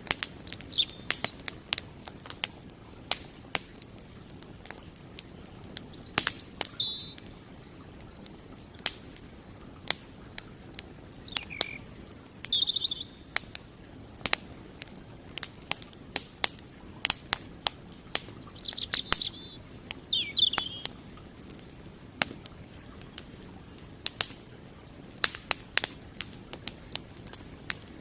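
Wood campfire crackling, with sharp irregular pops and snaps over the steady low rush of a flowing creek. Small birds chirp in short calls a few times, around a second in, near the middle and about two-thirds of the way through.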